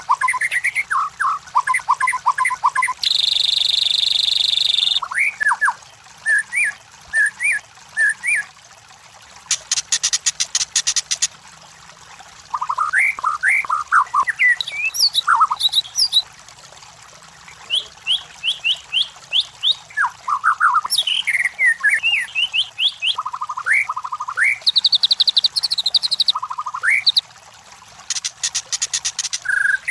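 White-rumped shama (murai batu) singing a varied song of quick whistled notes and sliding phrases. It breaks into a buzzing trill about three seconds in and again near the end, with harsh rattles around ten seconds in and just before the end.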